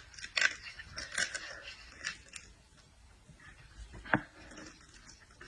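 Close-up eating sounds of seafood being chewed: a run of sharp clicks and crackles in the first two seconds or so, and one louder crack about four seconds in.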